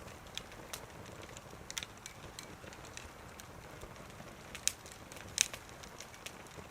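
Wood fire crackling, with irregular sharp pops over a faint steady hiss; the two loudest pops come about four and a half and five and a half seconds in.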